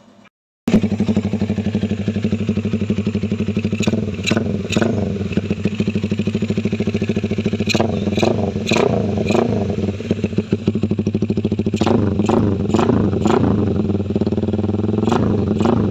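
Honda CB150R K15 DOHC single-cylinder engine fitted in a Honda Tiger, running after reassembly, in a sound check. It comes in abruptly about half a second in, with short throttle blips in groups several times.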